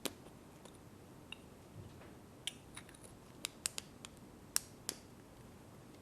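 Irregular sharp clicks and taps from props handled close to the microphone during a mock robot repair, about nine in all, bunched in the middle.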